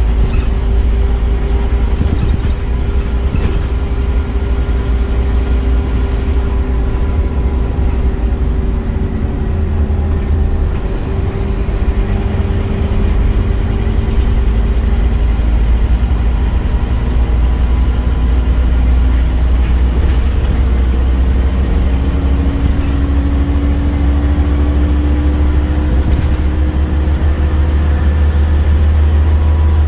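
Scania Omnicity bus's diesel engine running under way with a steady low rumble. The engine note eases off slightly over the first half, then rises steadily over the last third as the bus picks up speed.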